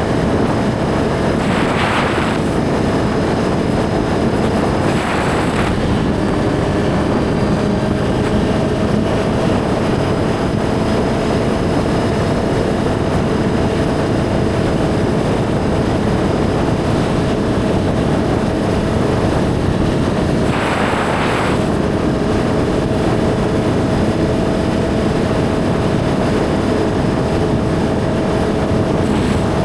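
Suzuki GSX-R1000 inline-four engine running at a steady pitch while riding, under a constant rush of wind on the helmet-cam microphone. A few brief hissy surges of noise come and go.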